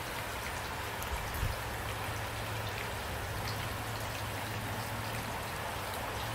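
Steady rain falling, with scattered individual drops ticking, and a brief low thump about a second and a half in.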